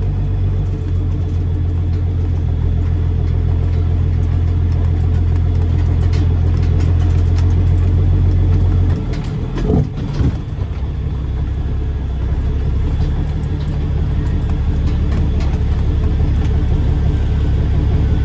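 Straight-piped Caterpillar C13 diesel of a Kenworth W900B dump truck running steadily under way. About halfway through, the engine note dips briefly, then settles into a steady lower drone.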